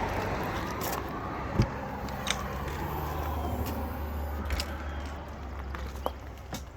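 A vehicle engine running nearby with a steady low hum, with a few sharp clicks and knocks over it.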